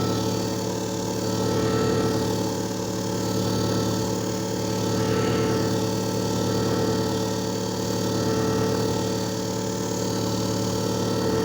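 JFJ Easy Pro disc repair machine running a resurfacing cycle: a steady motor hum that swells and eases slowly, then stops suddenly at the very end.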